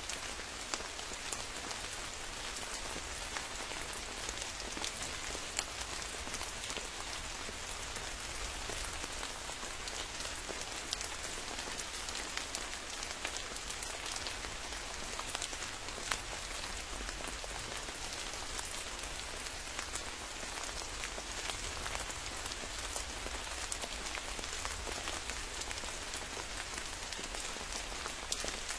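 Steady rain falling in a forest: an even hiss of rainfall with many sharp, close drop hits pattering over it, unchanging throughout.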